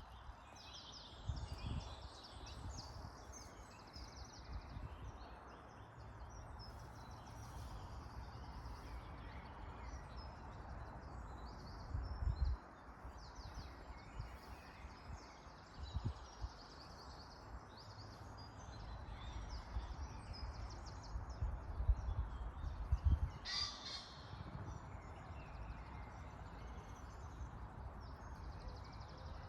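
Outdoor birdsong: many small birds chirping throughout, with one louder, harsher call about three-quarters of the way in, over an irregular low rumble.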